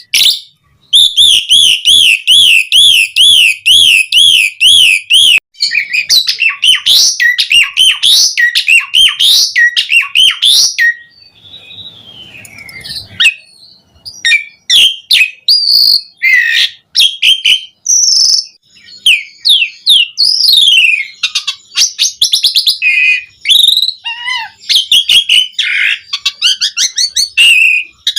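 Asian pied starling (jalak suren) singing loudly in full song. It opens with a fast, wavering whistled trill lasting a few seconds, then a long, varied run of whistles, chatter and sharp clicking notes.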